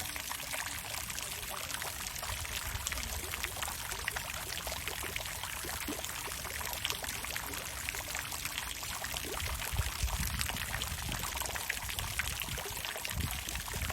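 Water fountain running steadily: a continuous pour of falling water with dense small splashes.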